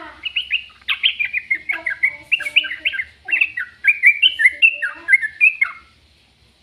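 A bird chirping in a quick, busy run of short notes that lasts about six seconds and then stops.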